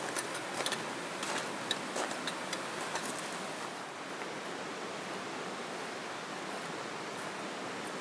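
Steady rushing of a flowing river, with a scatter of small sharp crackles over the first three seconds or so.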